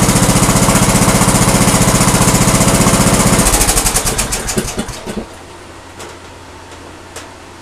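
Lawn tractor engine idling, then switched off: the steady firing slows and dies out over about two seconds. A couple of faint clicks follow.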